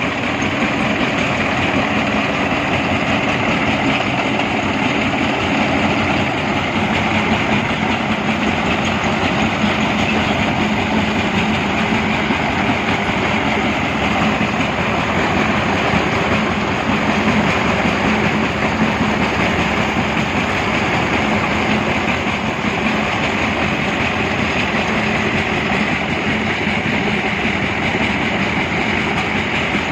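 Brick-breaking machine running steadily, a continuous loud clatter of bricks being crushed over a low engine hum.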